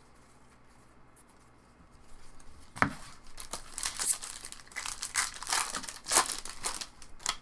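A foil trading-card pack wrapper being torn open and crinkled by hand. It starts about two seconds in with a sharp snap, followed by irregular crackling.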